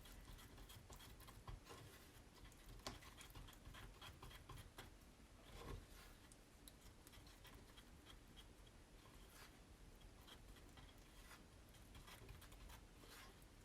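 Faint, scattered taps and scrapes of small jars of chalk paste being handled and the thick paste stirred.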